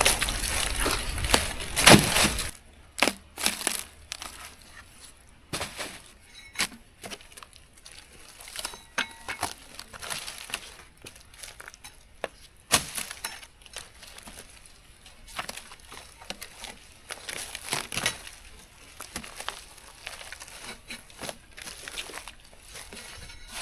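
Bark being pried and peeled off an ash log: irregular sharp cracks, snaps and scrapes of bark breaking away from the wood. A denser, louder spell with a low rumble in the first couple of seconds stops suddenly.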